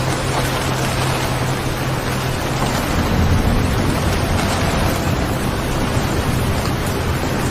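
Steady heavy rain over a continuous low drone, with a low rumble of thunder swelling about three seconds in.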